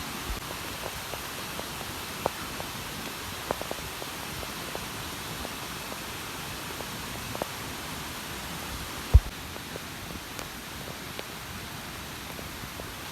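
Steady hiss of outdoor background noise with scattered light ticks and a single low thump about nine seconds in.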